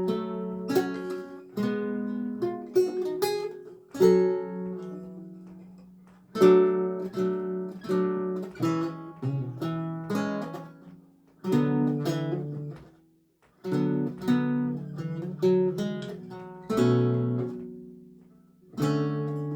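Solo lute music: plucked notes and chords that ring and die away, played in phrases with short pauses between them.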